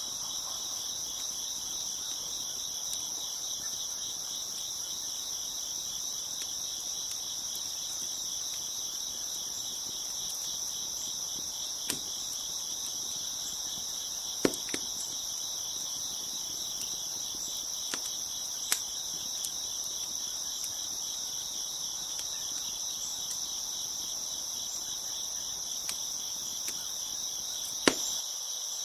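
A steady, dense chorus of crickets chirping, with a few scattered sharp pops from a crackling wood fire, the loudest about halfway through and near the end.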